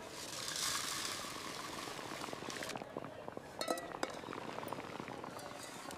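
Food cooking in a small pan: a steady hiss that swells in the first second and then eases, with a few light clinks about halfway through.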